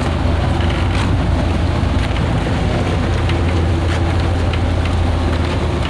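Engine running steadily with a low, even drone, with faint ticks and knocks over it.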